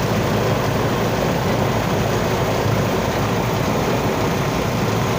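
Steady drone of running machinery, an even noise with a low hum underneath that holds level throughout.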